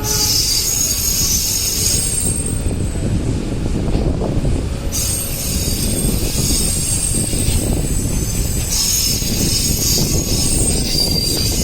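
Train wheels squealing on the rails over a steady low rumble as the train rolls slowly. The high squeal comes and goes: strong in the first two seconds, then again from about five seconds in to the end.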